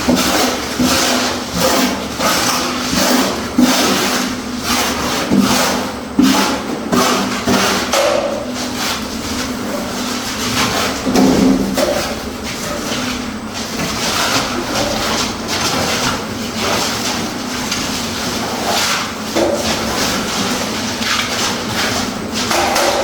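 Construction work: irregular knocks and scrapes of hand tools, with a steady low hum underneath.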